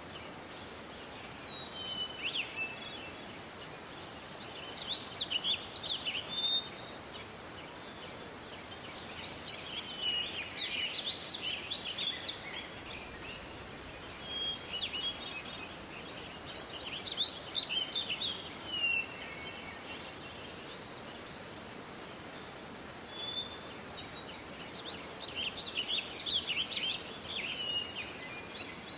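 Songbird singing: a twittering phrase of about three seconds, repeated four times with pauses of a few seconds, and short high chirps in between, over a steady hiss.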